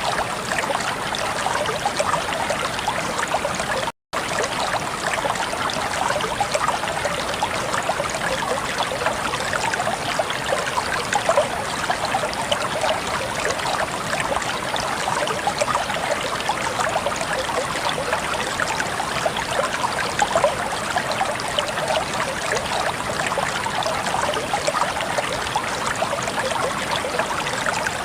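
Flowing water of a stream, a steady even rush broken by a split-second gap about four seconds in.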